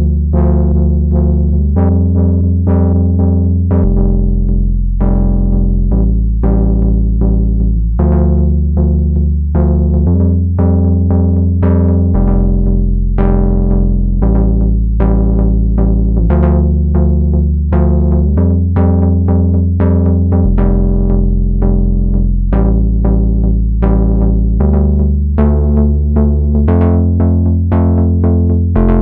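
Moog Subharmonicon analog synthesizer playing a bassy sequenced patch: deep sustained bass notes that step to a new pitch every couple of seconds, under a repeating pattern of short plucky notes that die away quickly.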